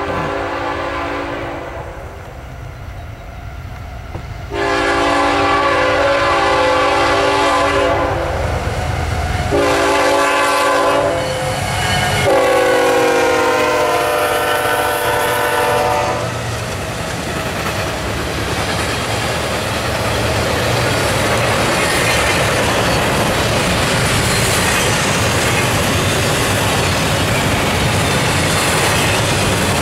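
Multi-chime air horn of a CSX diesel locomotive sounding long, long, short, long, the grade-crossing signal. The last blast drops in pitch as the lead engine passes. Then a steady rumble and clickety-clack of double-stack container cars rolling past on jointed track.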